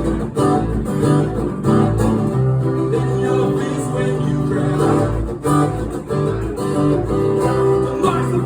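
Live band playing an instrumental passage, led by a strummed acoustic guitar over sustained low bass notes, with a low thump recurring every second or so.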